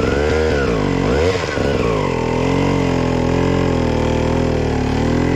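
Two-stroke dirt bike engine revving up and down under blips of throttle, then settling into a steady lower-pitched run from about two seconds in.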